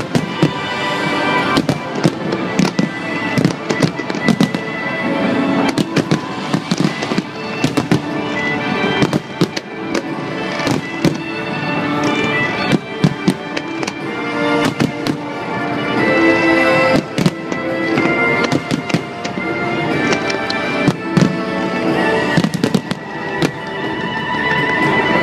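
Aerial firework shells bursting in many rapid, irregular bangs, mixed with music that holds sustained tones throughout.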